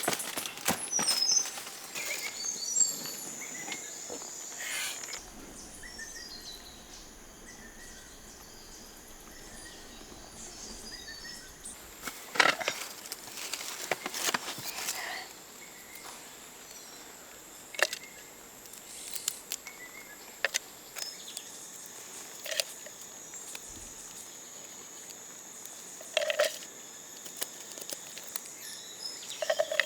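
Outdoor ambience with a steady, high-pitched insect drone, broken by scattered short knocks and rustles, a cluster of them about halfway through.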